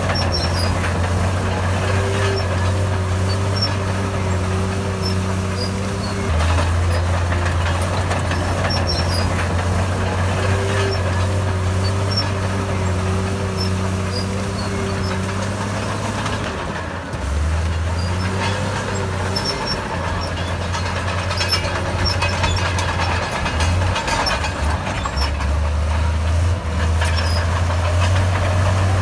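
Heavy diesel earthmoving machinery running under load, its engine note shifting down and back up several times as the load changes.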